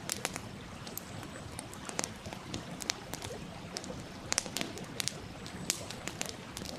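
Wood campfire crackling, with frequent irregular sharp pops and snaps over the steady rush of a stream.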